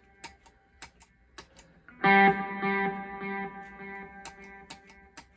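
Electric guitar chord played through a delay pedal: after a couple of seconds of faint clicks, one chord is struck about two seconds in and repeats as fading echoes roughly every half second or so.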